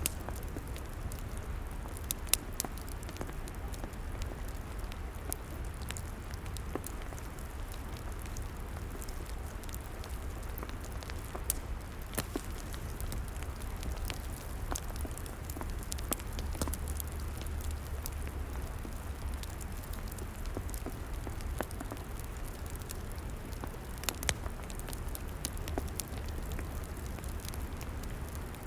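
Log fire crackling: a steady low rumble with irregular sharp pops and snaps scattered through it, a few standing out louder than the rest.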